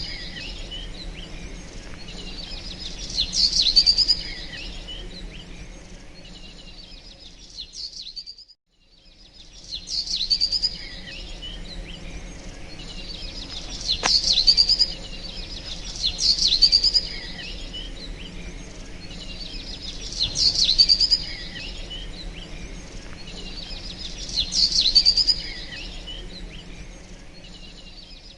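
A songbird singing short, high chirping phrases over and over, one burst every few seconds, over a steady low background hum. The sound cuts out completely for about a second a little past a third of the way in, then the same pattern resumes.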